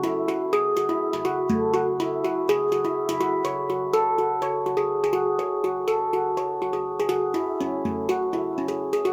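A tuned steel hand drum is being played with the hands: a quick, even stream of struck notes, several a second, each ringing on under the next, with deeper notes sounding now and then beneath the melody.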